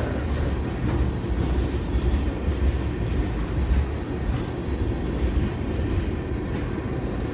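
Long FEC freight train's tank cars rolling past at a steady speed: a continuous rumble of wheels on rail with occasional light clicks.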